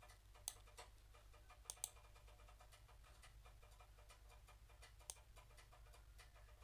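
Near silence with a low room hum and a few faint computer mouse clicks: one about half a second in, a quick pair near two seconds, and one about five seconds in.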